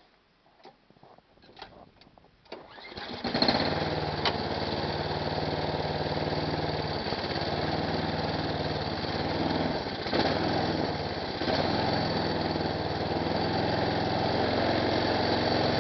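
Tecumseh snowblower engine cold-started with a single pull of the recoil starter after a night at −23 °C: a few light knocks and clicks, then about three seconds in it catches on the first pull and runs steadily.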